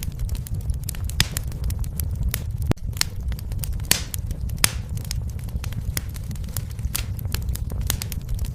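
Wood fire in a fireplace crackling: irregular sharp pops and snaps over a steady low rumble of the flames, with the loudest pops about four seconds in.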